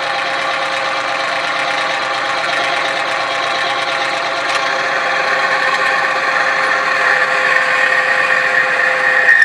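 Engine running steadily, lubricated with Shell Helix Ultra Professional 5W30 oil alone during an oil test. It grows gradually louder, with a high whining tone coming up toward the end.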